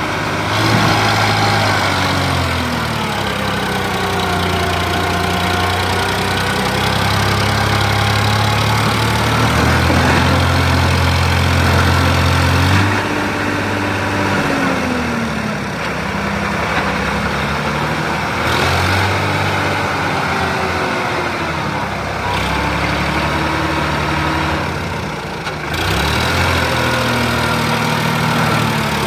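Diesel tractor engine running, its revs rising and falling again and again.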